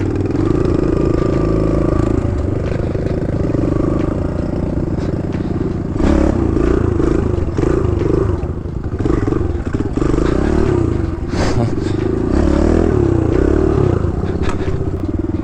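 Kawasaki KLX110 dirt bike's small single-cylinder four-stroke engine running on a trail, the throttle opening and closing so the pitch rises and falls, with clattering and scraping knocks from the bike over rough ground.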